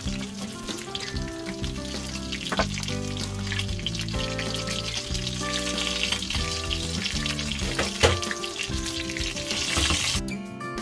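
Food sizzling as it fries in hot oil, a steady hiss, with background music playing over it. Two sharp knocks sound, the louder about eight seconds in, and the sizzle cuts off suddenly near the end.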